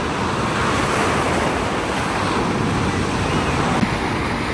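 Sea surf breaking and washing up the beach: a steady rush of waves.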